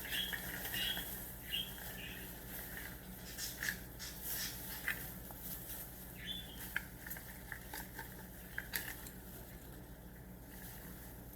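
Light rustling and scattered clicks of small pet toys and packaging being handled, with a few short high chirps from a pet bird in the first two seconds and again about six seconds in.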